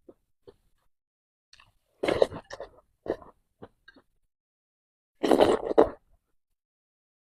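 Close-miked eating sounds of soft, milk-soaked bread or cookie: wet mouth and chewing noises in short bursts. There is a cluster about two seconds in, a few small clicks, then a longer, louder burst about five seconds in.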